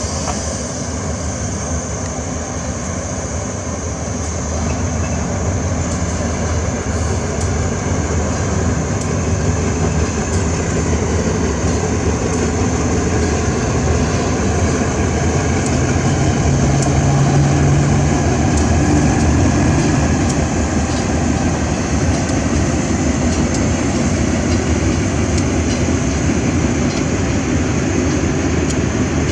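Train running, a steady loud mechanical noise with a low engine hum that grows a little louder about halfway through.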